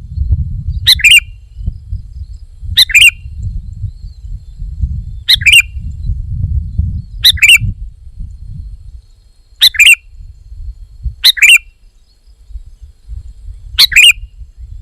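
Sooty-headed bulbul (kutilang) giving a short call seven times, about once every two seconds, over a low rumble that fades out about two-thirds of the way through.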